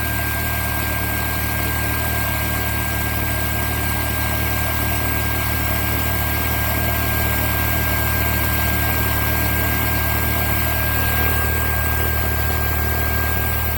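Dreame H12S wet-dry vacuum mop running steadily: a low hum under a steady high-pitched whine.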